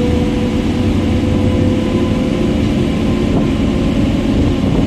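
ICF EMU local train running past at speed, a loud steady rumble of wheels on rail with a faint steady whine that fades over the first couple of seconds.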